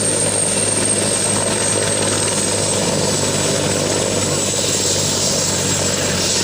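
Helicopter engine and rotor running steadily on the ground after start-up: a continuous rushing hum with a thin high whine that slides slightly lower.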